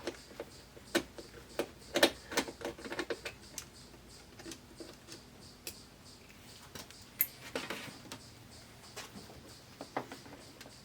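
Irregular clicks and light knocks of tools and plastic and metal parts being handled while an LCD TV is taken apart, busiest in the first few seconds, with a short rustle about seven seconds in.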